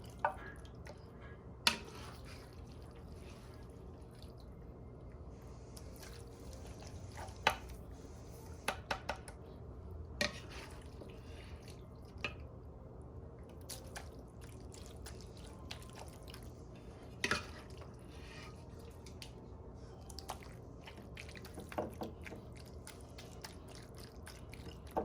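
A serving utensil clicking and tapping now and then against a glass baking dish as sauced spaghetti is laid in, with soft wet plops, over a steady low hum.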